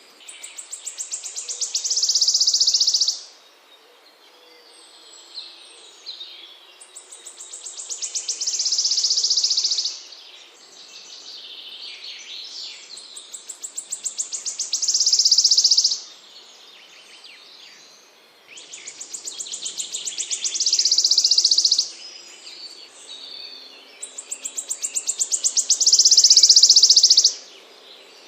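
A small songbird repeating one song about every six seconds, five times over. Each song is a run of rapid, high pulsed notes that quickens and grows louder into a loud, high, buzzy trill about a second long, which stops abruptly. Fainter chirps from other birds fill the gaps.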